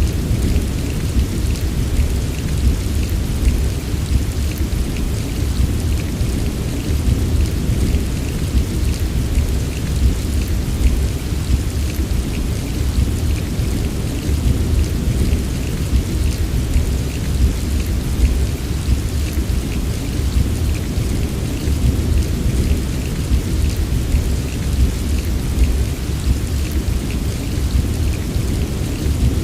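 Heavy rain falling steadily, fine drop ticks over a deep, continuous low rumble.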